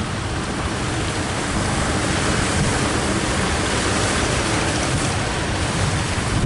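Strong wind and surf at sea: a steady rushing hiss that swells slightly toward the middle.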